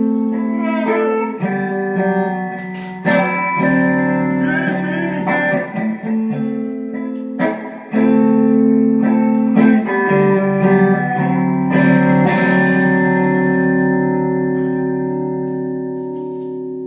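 Guitar playing an instrumental passage of a slow worship song, a chord struck every second or two; the last chord, struck near the end, rings on and slowly fades.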